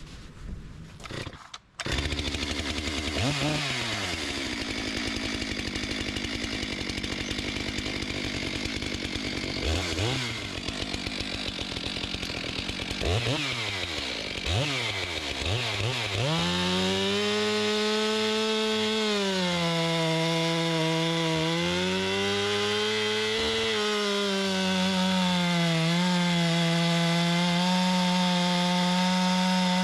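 Stihl MS 462 C two-stroke chainsaw starting about two seconds in and running, with several quick throttle blips. From about halfway it is held at high revs, its pitch sagging and recovering as it cuts under load on a test cut with a resharpened chain.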